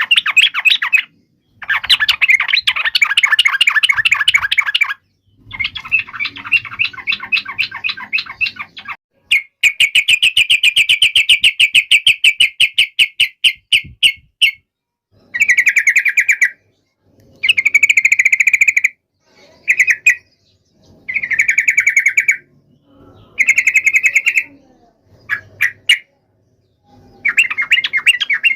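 Yellow-vented bulbul (trucukan) singing in fast chattering phrases of rapid repeated notes. The phrases last one to four seconds each, with short silent breaks between them.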